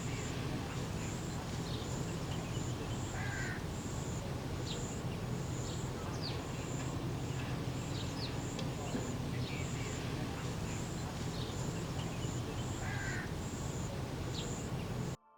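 Outdoor ambience of birds calling: short scattered calls and a couple of harsher, crow-like caws over a steady low background noise, with a high chirp repeating at an even pace about one and a half times a second. It cuts off suddenly near the end.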